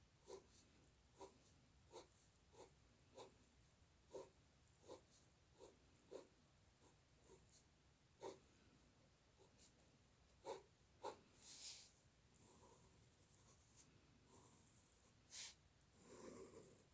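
Faint drawing strokes on paper: short scratches about once a second, with a few longer strokes near the end.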